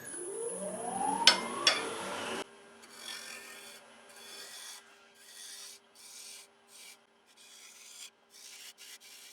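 Wood lathe motor rising steadily in pitch as it spins up, then a quieter steady hum under a bowl gouge taking repeated short cuts in sycamore, each cut a brief hiss.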